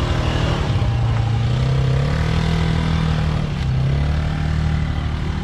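Kawasaki KFX90 youth ATV's small four-stroke engine running under throttle, its pitch climbing in the first second or so, dipping briefly about three and a half seconds in, then rising again.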